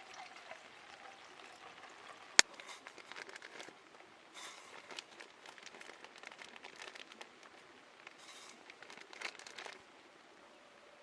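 Wood campfire crackling, with irregular small snaps and one sharp pop about two and a half seconds in.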